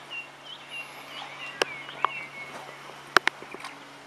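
A small bird calling in a quick series of short chirps, several a second, for the first two and a half seconds. A few sharp knocks come over it, the loudest about three seconds in, above a steady low hum.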